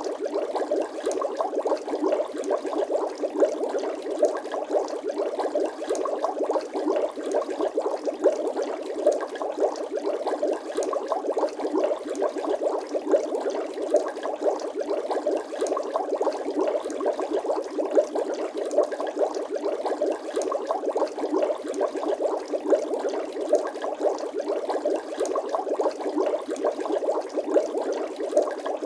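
Bubbling water sound effect: a steady, dense stream of small bubble pops, with no deep rumble.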